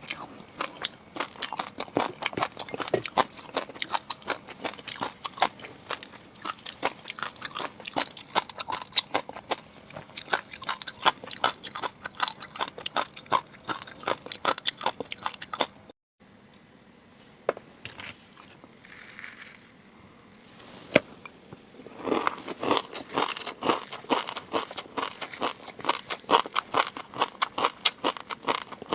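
Close-miked eating sounds of seafood being chewed: fast, dense wet clicks and crunches. About halfway through they cut out for a moment and stay sparse and quieter for several seconds, with one sharp click, before the chewing picks up again.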